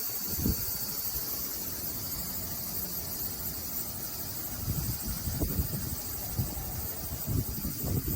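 Cicadas singing in a steady, high-pitched chorus while gusts of typhoon wind rumble on the microphone, the gusts getting stronger about halfway through.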